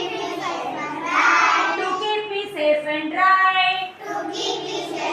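A group of young children singing a nursery rhyme together in unison, in short phrases.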